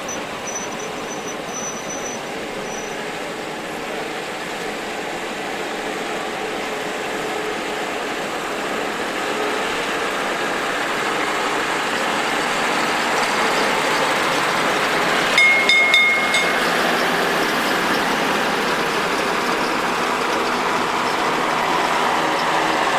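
A vehicle engine running steadily and slowly getting louder, with a short high-pitched beep about sixteen seconds in.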